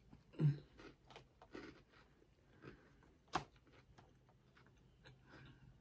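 Close-up eating sounds: a person chewing food, with scattered soft mouth sounds and a sharp click about three and a half seconds in.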